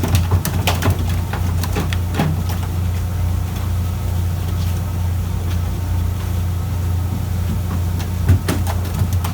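Fishing boat's engine running with a steady low hum, with a few sharp knocks and clicks on deck in the first couple of seconds and again near the end.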